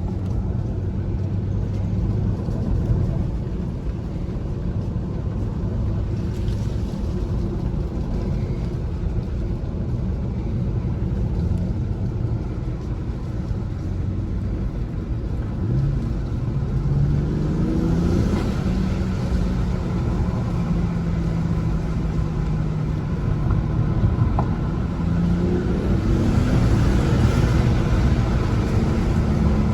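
BMW 335xi's twin-turbo N54 straight-six with an Injen cold air intake, heard inside the cabin on the move over steady road noise. The engine note climbs as the car accelerates, once a little past halfway and again near the end.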